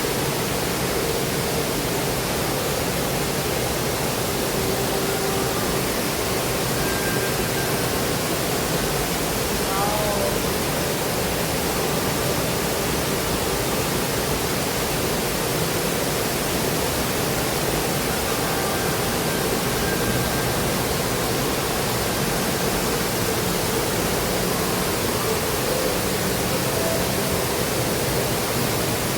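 Steady, even rushing noise like falling water, with a few faint high tones above it and a short falling whistle about ten seconds in.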